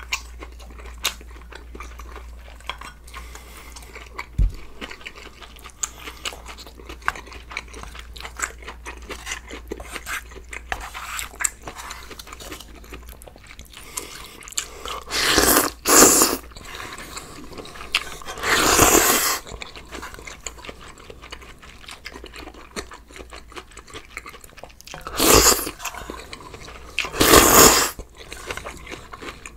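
Close-miked chewing and crunching of a person eating spicy sausage stew with ramyeon noodles and crunchy kimchi side dishes, as many small wet clicks. Four louder rushes, each about a second long, come in the second half.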